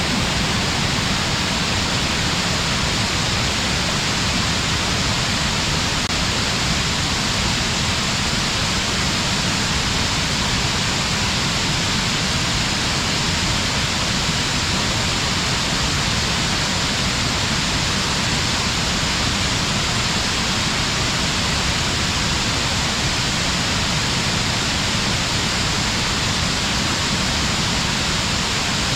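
Fukiware Falls waterfall: a steady, even rush of falling water that holds at one level throughout.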